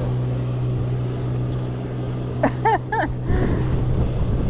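Motorboat engine running steadily with a low hum that stops about three seconds in. Just before it stops come three short calls, each rising then falling in pitch.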